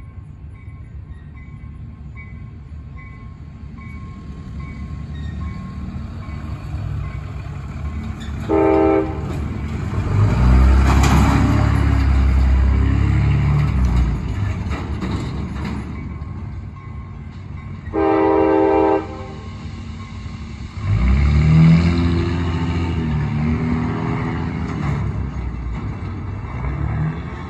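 Diesel-hauled CSX freight train approaching and passing, its rumble growing louder. The horn sounds two short blasts about nine seconds apart, and each is followed by a loud surge of low engine rumble.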